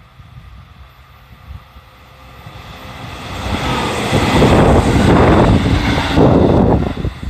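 A three-car JR Central 313-series electric multiple unit passing on the rails. The rumble of wheels on track builds over a couple of seconds, runs loud for about three seconds as the cars go by, then drops off sharply near the end.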